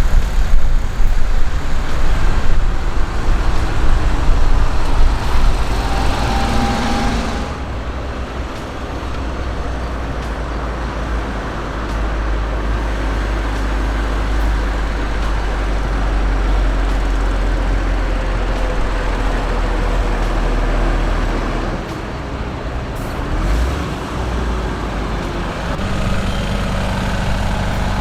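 Heavy trucks running, with engine rumble and road noise. The sound changes abruptly about seven seconds in and again near twenty-two seconds.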